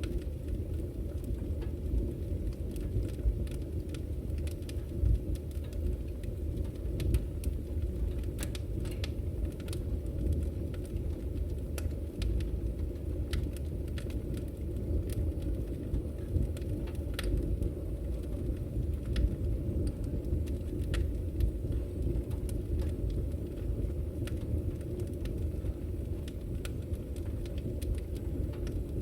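Firewood burning in a fireplace, crackling: irregular sharp pops and snaps over a steady low rumble of the fire.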